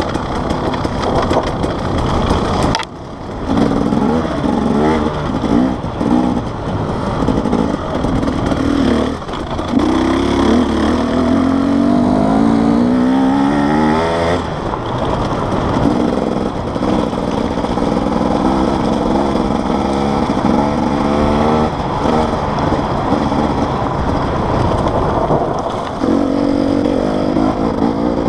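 Enduro dirt bike engine revving up and down as it is ridden along a trail, its note climbing and dropping with the throttle and gear changes, with one long climb in the middle and a brief throttle-off about three seconds in.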